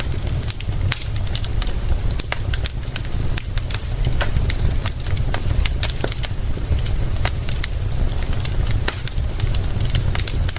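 Wood fire crackling with frequent irregular sharp pops, over a steady low rumble and hiss.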